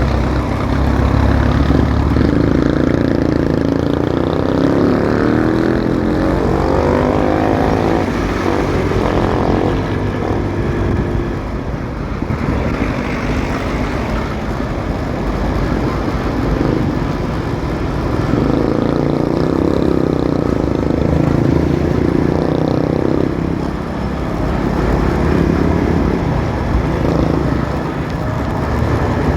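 Motorcycle engine running under way, its pitch rising and falling a few times as it speeds up and eases off, over a steady road rumble.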